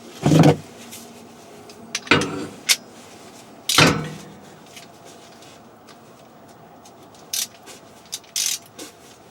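Metal clanks and clicks of hand tools and brake-bracket hardware being handled while the bolts are tightened: three loud, sharp knocks in the first four seconds, then a few lighter clicks near the end.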